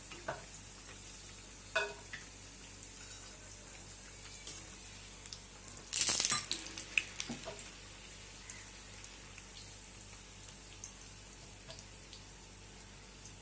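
Pastry puffs deep-frying in hot oil with a steady sizzle and scattered sharp crackles. About six seconds in there is a louder burst of sizzling and crackling, which trails off in a few pops.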